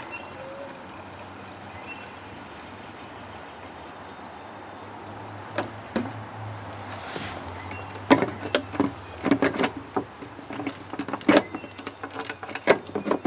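Gasoline being poured into the riding tractor's fuel tank, a steady pouring sound, followed by irregular clicks and knocks from about eight seconds in.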